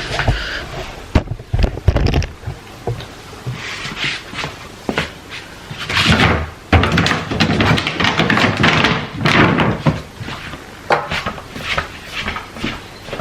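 Household handling noises: irregular knocks, thuds and rustling, with a door-like thump among them.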